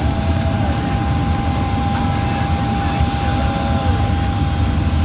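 Boeing 767-300 jet airliner's engines at takeoff power, a steady deep rumble with a steady high tone on top.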